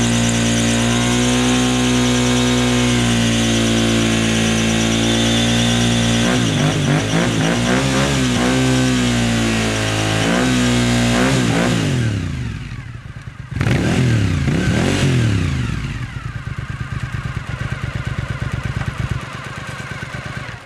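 Suzuki SV1000S 90-degree V-twin held at high revs during a burnout, with the rear tire spinning on the pavement. The revs then rise and fall several times, drop off, flare once sharply, and settle to a lower, unsteady run.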